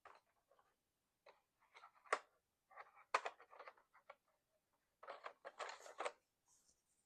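Colored pencil scratching on sketchbook paper in short, uneven strokes with pauses between, including a longer run of strokes about five seconds in.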